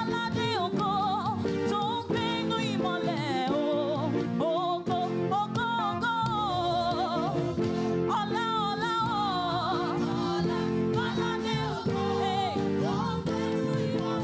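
Gospel praise music: a lead voice singing a wavering, ornamented melody over held instrumental chords and percussion.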